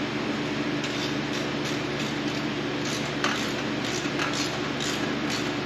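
Steady machine hum with a few faint light clicks.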